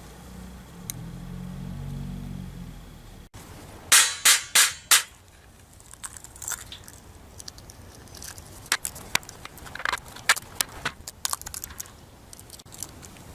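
Four loud, sharp knocks or cracks in quick succession, followed by scattered lighter clicks and cracks.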